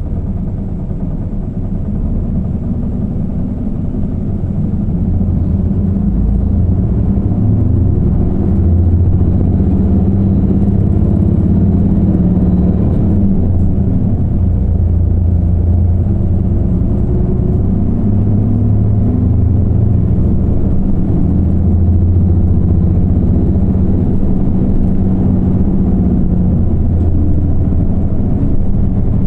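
Isuzu PKG-LV234L2 city bus diesel engine pulling at high revs while accelerating, its coupling cooling fan engaged. The engine pitch climbs, drops about 13 seconds in at a gear change, then climbs again.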